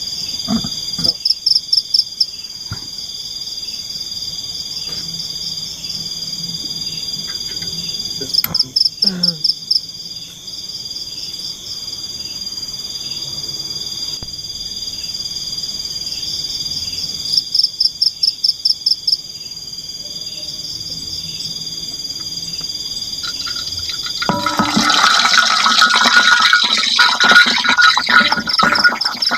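Night chorus of tropical forest insects: a steady high buzzing with bursts of fast pulsing trills every several seconds. About 24 seconds in, a loud chorus of frogs starts calling over it.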